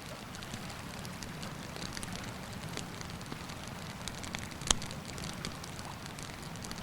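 Wood campfire crackling, with scattered small pops and one sharp loud pop about two-thirds of the way through, over the steady low rush of the river.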